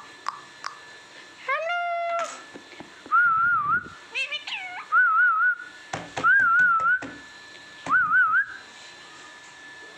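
Pet parrot whistling: a rising whoop, then four short warbling whistles that waver up and down, with a few clicks near the start.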